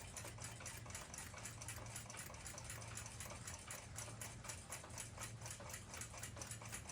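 Steady, rapid mechanical ticking, about five to six even ticks a second, over a low steady hum.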